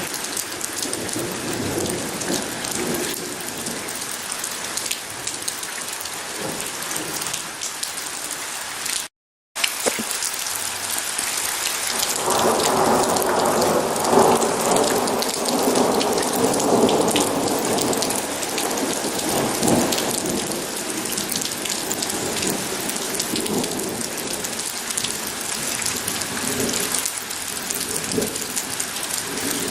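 Steady rain pattering, with rolling thunder rumbling from about twelve to twenty seconds in. The sound cuts out completely for about half a second around nine seconds in.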